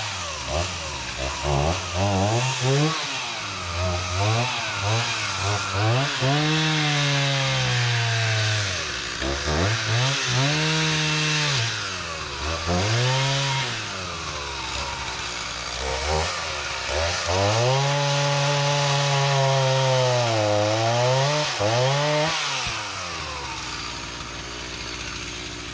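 Two-stroke chainsaw, just started after sitting unused for a year, revved up and down over and over with several long runs held at high speed. It settles to a steady idle near the end.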